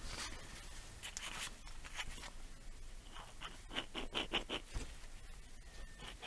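Light scraping and rattling of scooter parts being handled during disassembly, with a quick run of about seven short rasps a little before the middle.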